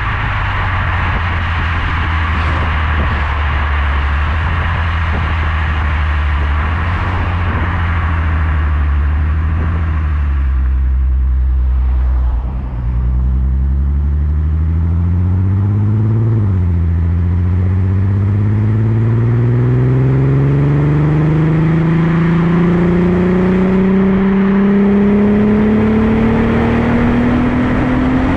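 Skoda Superb's 3.6 FSI VR6 engine through a Gestec cat-back exhaust, driving on the road. It holds a steady low note for about ten seconds, eases off, then pulls with rising revs, drops sharply in pitch at a quick gearbox upshift about 16 seconds in, and climbs steadily in the next gear.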